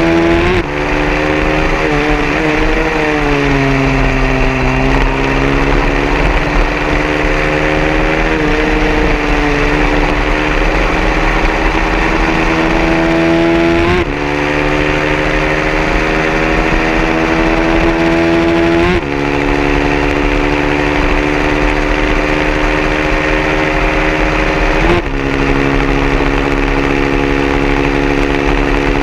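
A 150cc racing motorcycle engine at full throttle. Its pitch climbs steadily and drops abruptly at each upshift, four times. A few seconds in the revs sag and waver before building again.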